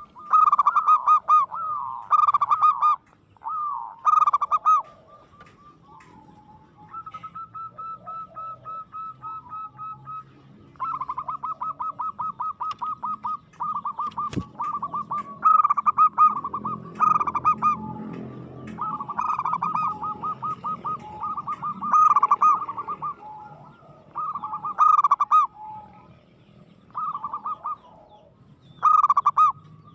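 Zebra dove (perkutut) cooing: repeated rapid, pulsing coo phrases, one after another, with a single sharp click about halfway.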